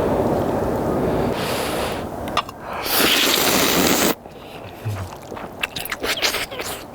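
A person eating instant ramen noodles: rushing slurps and blowing, the loudest about three seconds in, then quieter wet clicks of chewing.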